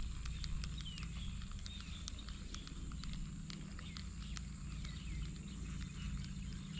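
Outdoor wildlife ambience: a steady high insect drone, with many scattered sharp clicks and short chirps from small creatures, over a low rumble.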